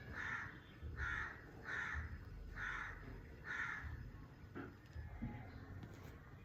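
An animal calling five times, evenly about a second apart, the calls ending about two-thirds of the way through.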